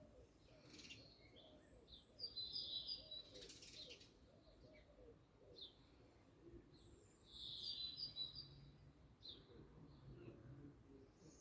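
Wild birds singing and chirping faintly, with short high chirps throughout and two longer, louder song phrases, one about two seconds in and another near eight seconds.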